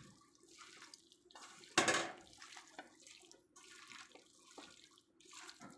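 Water splashing and dripping, with one louder rush of noise about two seconds in.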